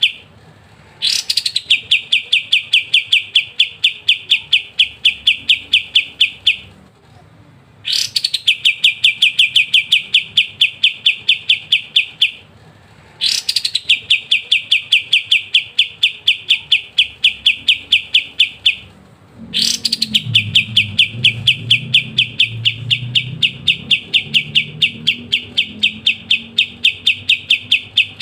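Kapas tembak, a bulbul, singing its rapid rattling 'ngebren' trill: four long runs of fast, evenly repeated high notes. Each run starts with a quick upward sweep and lasts about five seconds, with short pauses between runs. A faint low hum comes in about two-thirds of the way through.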